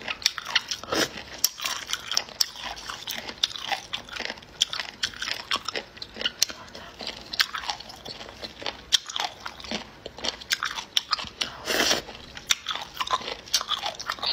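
A person biting and chewing crunchy pieces of canned spicy seafood close to the microphone, with many sharp, irregular crunches. A longer, louder burst of noise comes near the end.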